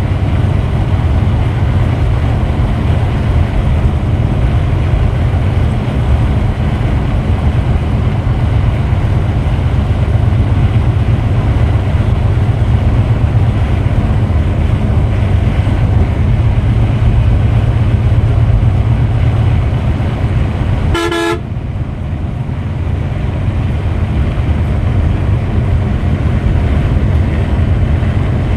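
Steady low drone of a Scania Metrolink multi-axle coach running on the road. A short horn blast sounds about three quarters of the way through.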